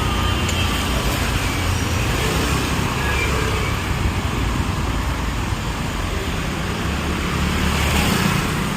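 Road traffic noise: a steady low rumble of passing vehicles' engines and tyres.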